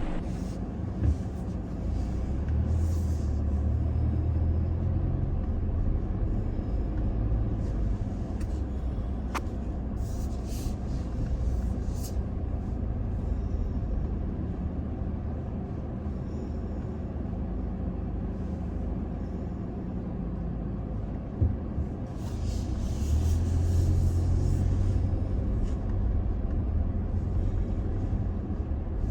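Toyota Tacoma pickup driving on a dirt road: a steady low rumble of engine and tyres that swells twice, with a couple of brief knocks.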